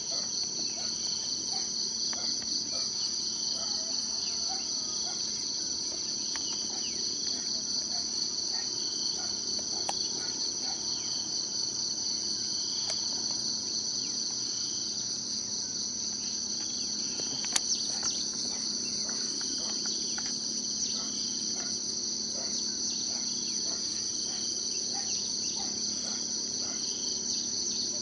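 Insects trilling steadily in a high, finely pulsing drone, with fainter chirps repeating about every second and a half. A single sharp click comes about two-thirds of the way through.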